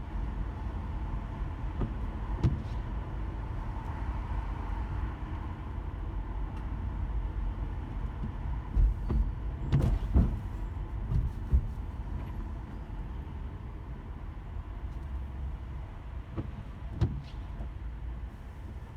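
A car driving slowly in heavy traffic in light rain: a steady low engine and road rumble, with a cluster of sharp knocks and clicks about halfway through and one more near the end.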